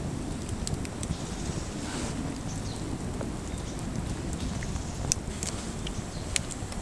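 Steady low rumble of wind on the microphone, with a few scattered sharp clicks.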